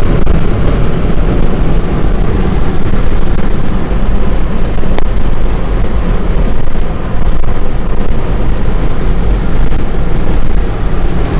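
Steady road and wind noise of a car driving on the highway, heard from inside the cabin, with a single click about five seconds in.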